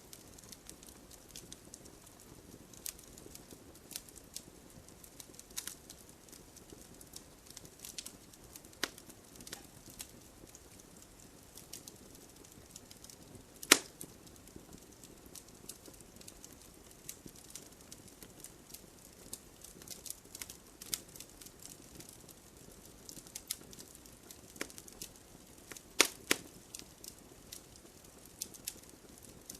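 Wood fire burning in a fireplace: logs crackling with many small scattered pops over a low steady hiss of flame. A few sharper, louder pops stand out, the loudest about fourteen seconds in and two close together near the end.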